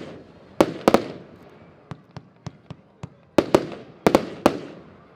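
A Diamond Revolution consumer fireworks battery firing shots as sharp, irregular bangs. The loudest come as a pair about half a second in and as a cluster from about three and a half to four and a half seconds, with softer single shots between. Each loud bang trails off in a fading echo.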